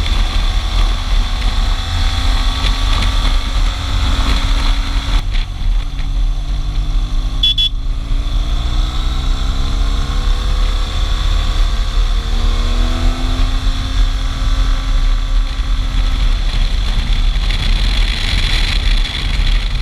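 Motorcycle engine under way with heavy wind rumble on the rider's microphone, its pitch rising and falling with changes of speed and gear. A brief high beep about seven and a half seconds in.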